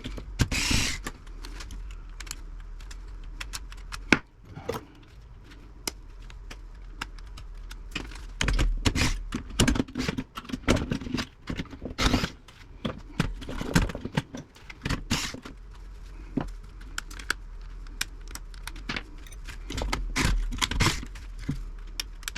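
Metal clinks, clicks and scraping of hand tools and loose parts on the steel chassis of a 1950s Philco radio as components are worked loose for scrap. The knocks come irregularly, with a sharp clack about four seconds in and another about twelve seconds in.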